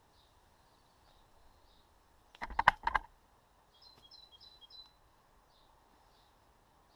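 Small birds chirping in the background: a faint high call repeating about every half second, and a quick run of chirps about four seconds in. About two and a half seconds in comes a brief cluster of sharp clicks and knocks lasting about half a second, the loudest sound.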